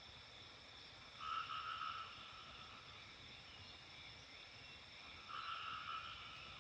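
A frog calling twice, each call under a second long, about a second in and again near the end, over a faint steady high-pitched hum.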